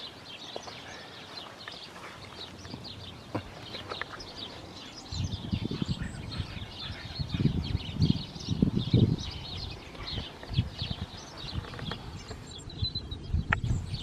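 Small garden birds chirping and twittering in many short, high calls. From about five seconds in, irregular low rumbling noise comes in under the calls.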